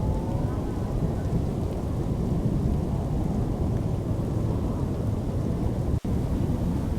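Thunderstorm noise: a steady low rumble with rain, dense and unbroken, cut off for a split second about six seconds in.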